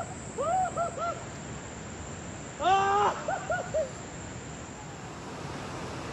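Hooting calls, owl-like: short arched notes in quick groups of three or four, and one longer, stronger call about three seconds in. They sound over a steady hiss of water or rain.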